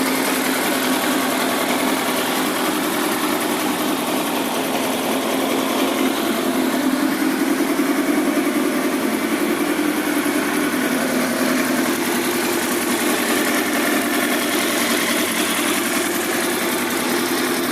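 Kawasaki ZX-10R inline-four engine running steadily at idle on its first run after a rebuild. The revs rise slightly about halfway through and then settle back.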